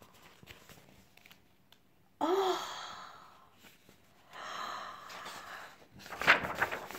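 A woman's breathy sighs, the first starting suddenly about two seconds in with a short voiced dip in pitch, the second about four and a half seconds in; a short cluster of clicks and rustle follows near the end.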